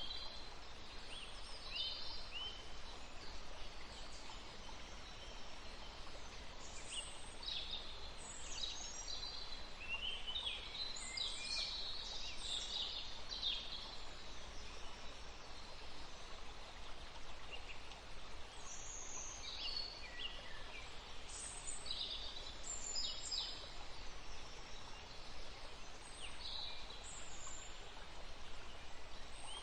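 Small birds chirping and calling in clusters of short high notes over a steady hiss of outdoor ambience, with a quieter lull about halfway through.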